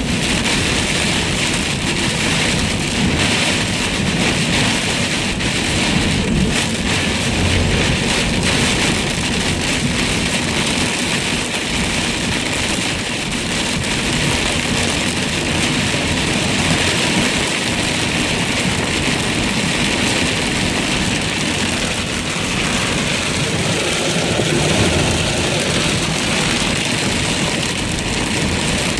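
Heavy rain pelting a moving car's roof and windshield, a steady dense hiss of countless drop strikes over the low rumble of the car on the road.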